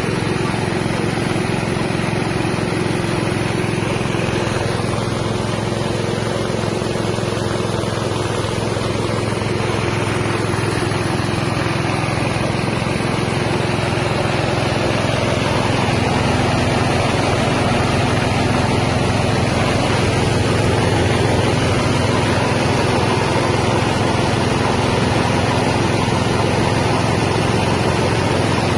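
Small engine-driven rice milling machine (paddy huller and polisher) running steadily, its engine and milling rotor making a continuous mechanical drone that grows slightly louder a little past halfway.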